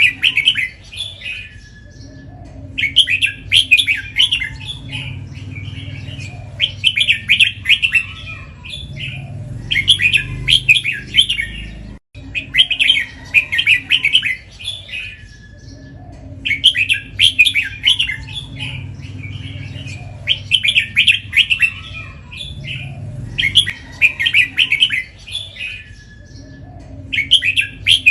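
Red-whiskered bulbul singing: short, bright, chattering song phrases delivered in runs of two or three, with pauses of a second or two between runs. A faint steady low hum lies underneath.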